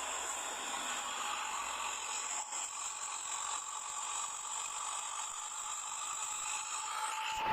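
A bus's whistle exhaust (knalpot seruling) giving a faint, steady whistling whine over hiss.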